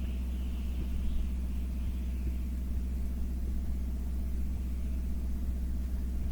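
Steady engine-like hum at a constant speed, with a low rumble underneath.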